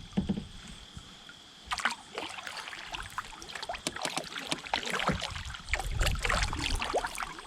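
Water lapping and trickling against a kayak, with irregular small splashes and ticks.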